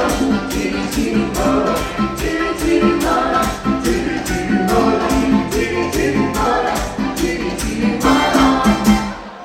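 Live dance band playing a Latin-style party song with a steady, even beat. The band drops out for a moment near the end.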